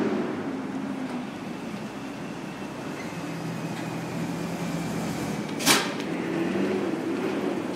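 1978 Corvette Stingray's V8 running at low revs as the car creeps forward at walking pace. A single sharp clack about two-thirds of the way through is the loudest sound.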